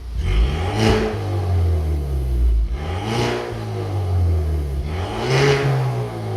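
Genesis G70's 2.0-litre turbocharged four-cylinder revved three times from idle, each rev rising and falling back, through an aftermarket Junbiel electronic valved exhaust.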